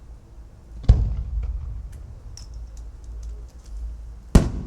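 Aerial firework shells bursting: two sharp booms about three and a half seconds apart, the first followed by a low rumbling echo, with faint crackles in between.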